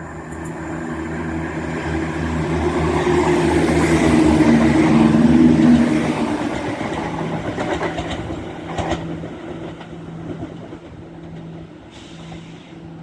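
ScotRail Class 170 Turbostar diesel multiple unit passing through the station without stopping. Its engine drone and rail noise build to a peak about five seconds in, then fade as it moves away, with a few sharp clicks midway.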